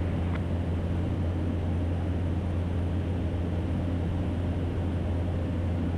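Cessna 208 Caravan in cruise flight: its single PT6A turboprop engine and propeller make a steady drone, a strong low hum with a hiss above it.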